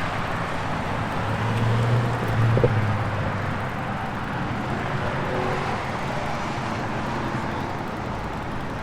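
A car engine running nearby over steady outdoor background noise, its low hum growing louder for a couple of seconds about a second in, then fading back.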